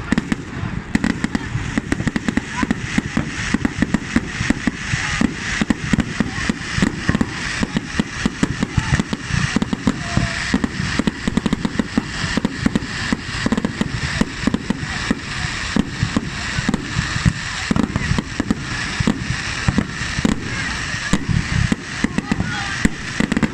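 Fireworks and firecrackers going off in a dense, continuous barrage of sharp bangs and cracks, several a second.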